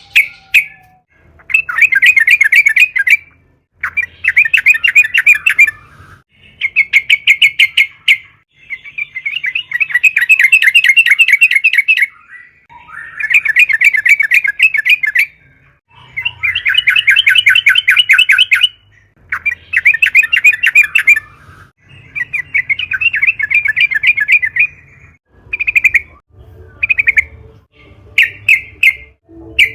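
Yellow-vented bulbul singing vigorously: repeated bursts of rapid chattering notes, each about two seconds long with short pauses between them, turning to shorter phrases near the end.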